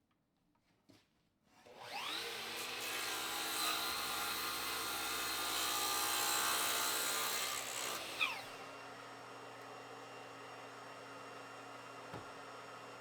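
Electric power tool starting with a rising whine and cutting wood loudly for about six seconds, then running lighter and more steadily after the cut until it switches off near the end.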